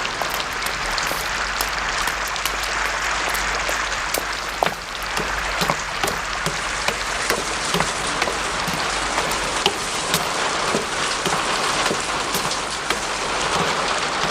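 Steady rain falling, with many single drops ticking sharply on hard surfaces throughout.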